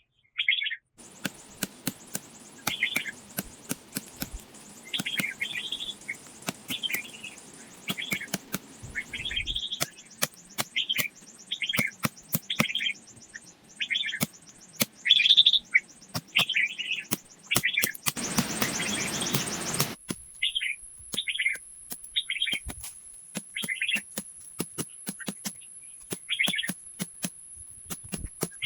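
A bird calling over and over, a short chirp about once a second, over scattered sharp taps and a steady hiss. A louder rush of noise comes about eighteen seconds in and lasts about two seconds.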